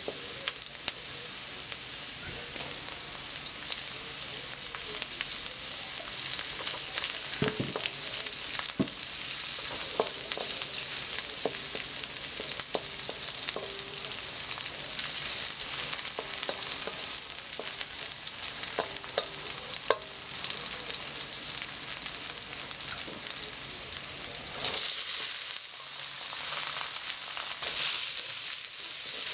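Chopped shallots, garlic and chilli sizzling in hot oil in a wok, with a wooden spatula scraping and clicking against the pan as it stirs. About 25 seconds in, the sizzle grows louder as diced carrots go into the wok.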